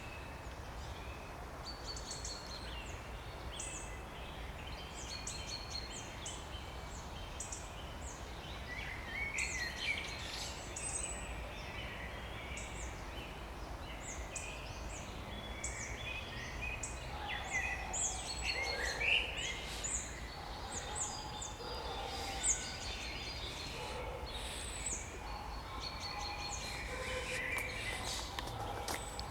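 Spring chorus of several songbirds singing and calling at once, short chirps, trills and whistles overlapping throughout and growing busier about a third of the way in, over steady low background noise.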